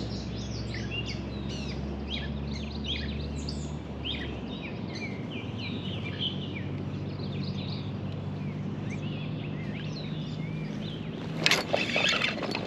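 Songbirds chirping and singing, many short calls overlapping, over a low steady hum whose deepest part stops about a third of the way in. Near the end a sudden louder noisy burst with clicks cuts in.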